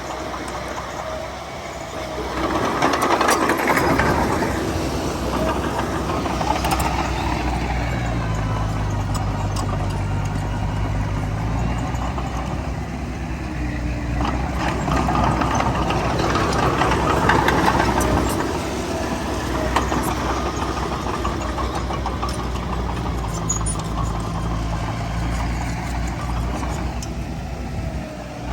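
Heavy diesel earthmoving machinery (bulldozer and dump trucks) running, the engine sound rising to louder surges a few seconds in and again past the middle, settling to a steadier low drone in between.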